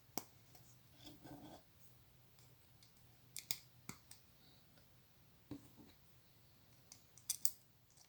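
Plastic Lego pieces clicking and tapping as they are handled and pressed together: scattered sharp clicks a second or two apart, some in quick pairs, with a brief soft rustle.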